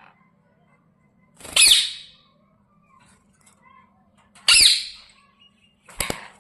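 Ringneck parrot giving two loud, shrill calls about three seconds apart, agitated while squabbling and biting another bird. A couple of sharp clicks near the end.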